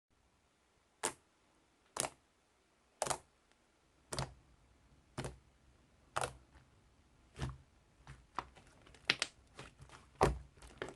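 Slime being pressed and worked by hand, making crisp clicking pops: about one a second at first, then quicker and more irregular from about eight seconds in.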